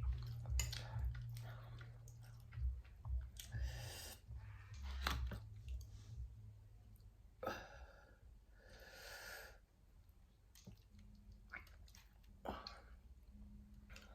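Close-up eating sounds: chewing and smacking on barbecued spare ribs, with scattered wet clicks and short breaths, loudest in the first few seconds.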